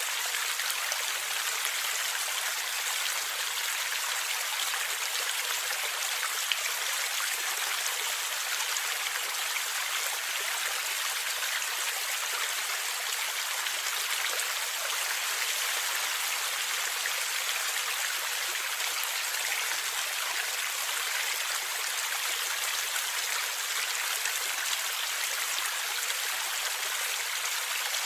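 Stream water flowing and gurgling steadily, an even rushing hiss with almost no low rumble.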